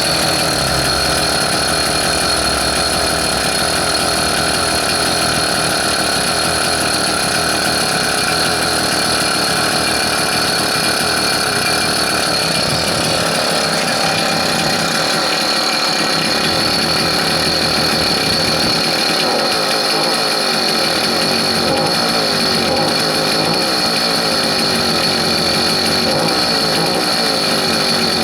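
A vehicle engine running steadily at a constant speed, warm after a 200 km run, with a steady high whine over the dense mechanical running noise.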